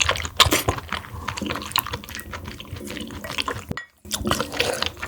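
Close-miked wet eating sounds of mussel porridge and soup: sticky smacks and small clicks of spoon and mouth. There is a brief drop to silence about four seconds in.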